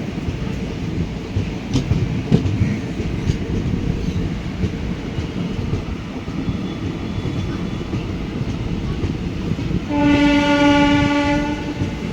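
Goods train running past, its wagons' wheels rumbling steadily with a few sharp clanks on the rails. Near the end a train horn sounds once, a single steady note held for about a second and a half.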